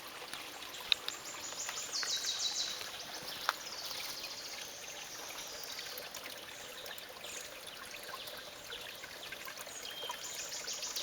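Spring water running steadily from the outlet, a strong trickling, splashing flow. A couple of sharp clicks stand out, about a second in and again near the middle.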